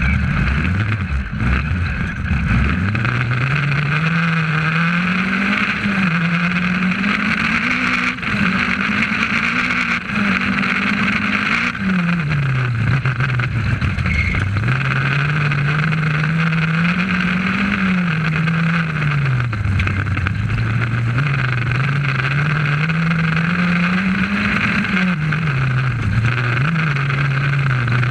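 Rally car engine heard from inside the cabin, its revs climbing steadily and dropping sharply again and again, about half a dozen times. A steady road and cabin noise runs underneath it.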